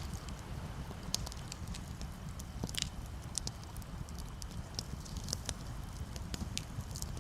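Campfire crackling, with irregular sharp pops and snaps, one of them louder about a third of the way in, over a steady low rumble.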